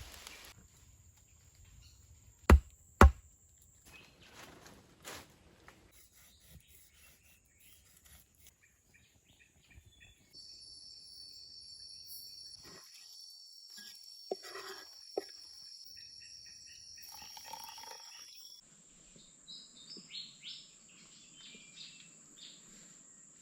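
Tropical forest ambience: insects keep up a steady high drone while birds chirp and call. The insect chorus changes abruptly twice, about ten seconds in and near the end. Two sharp loud cracks come close together a few seconds in.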